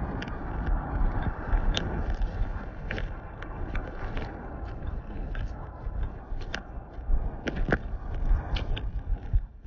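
Walking footsteps crunching underfoot, with irregular sharp clicks and low knocks.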